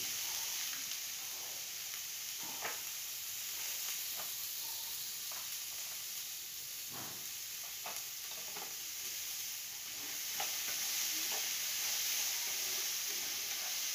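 Soaked black chickpeas and cumin sizzling steadily in a little oil in a nonstick frying pan, with scattered light clicks and taps through the sizzle.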